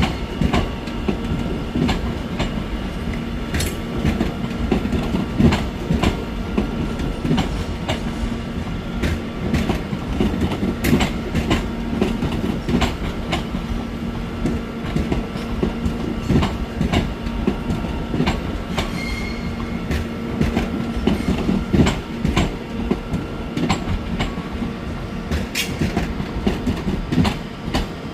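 Train running on the rails, its wheels clicking and knocking irregularly over rail joints, with a steady hum underneath.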